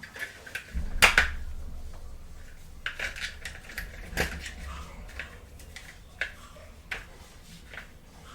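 Small plastic toy playset pieces clicking and clattering as they are handled and set down. There is a cluster of sharp clicks about a second in, then scattered single taps.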